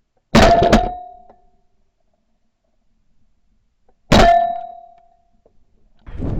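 Two shotgun shots about four seconds apart, each a sharp blast that dies away over about a second with a brief ringing tone: firing at a flushed pheasant.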